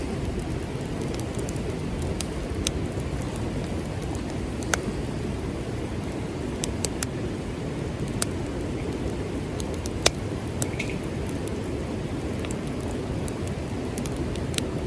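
Wood fire crackling, with sharp pops at irregular intervals over a steady low rushing background.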